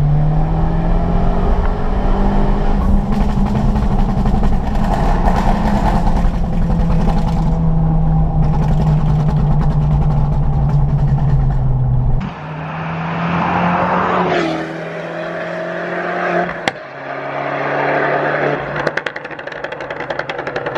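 Modified Abarth 500's turbocharged 1.4 T-Jet four-cylinder with a Monza exhaust, heard from inside the cabin pulling steadily under way. About twelve seconds in, the sound changes to the car heard from the roadside, its engine note surging and falling as it comes by, with a sharp click near the end.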